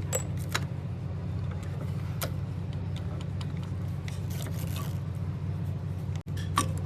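A machine engine running steadily with a low, even throb, with light metallic clinks and taps from tools or parts on and off.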